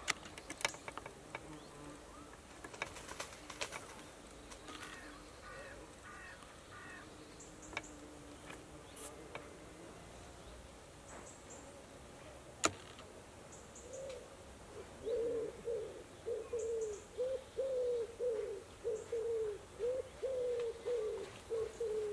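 Outdoor bird sounds: a few small chirps and scattered clicks, with one sharp click about halfway through. From about two-thirds of the way in, a bird gives a run of low, evenly repeated cooing hoots, about one or two a second.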